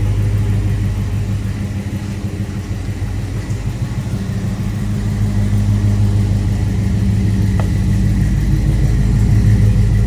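1966 Chevrolet Nova Super Sport's V8 engine running at idle, a steady low rumble that grows a little louder over the last few seconds.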